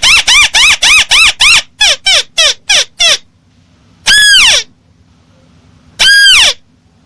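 Recorded call of a crake (burung tikusan) played loud as a bird-trapping lure: a rapid string of short, harsh notes that each rise and fall, about three a second, slowing and thinning out over the first three seconds, then after a pause two longer, drawn-out notes that rise and then fall, about four and six seconds in.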